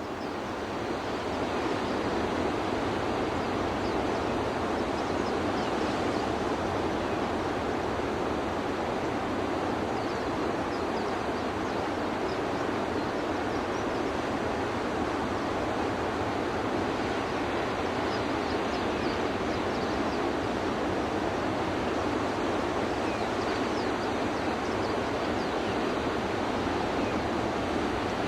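Steady rushing water, rising over the first second or two and then holding even, without distinct wave surges.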